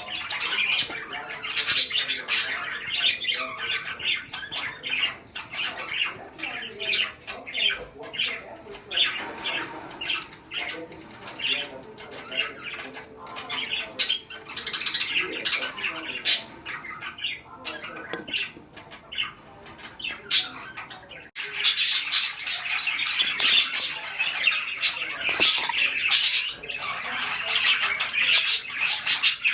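Budgerigars chattering and squawking in a rapid run of short chirps and calls, which grows louder and busier about two-thirds of the way through.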